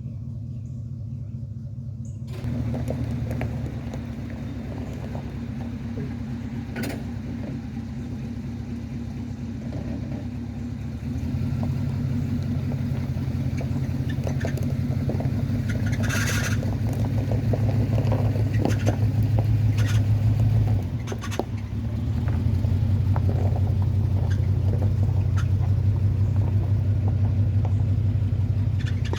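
1985 Chevrolet K10 pickup's engine running with a steady low drone. It grows louder about a third of the way in and again later, dipping briefly about two-thirds through, as the truck is driven slowly.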